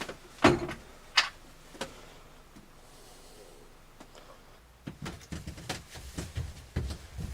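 Knocks and clatter of things being handled in a small boat cabin: three sharp knocks in the first two seconds, then a run of light bumps and rattles from about five seconds in.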